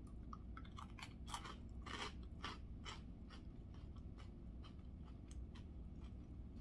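A person chewing crunchy Cheetos: a run of irregular crisp crunches, thickest in the first three seconds, then thinning to faint clicks.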